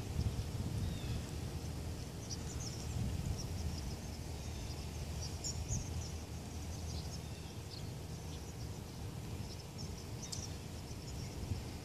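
A huge flock of birds calling overhead: a constant scatter of short, high chirps, over a steady low rumble.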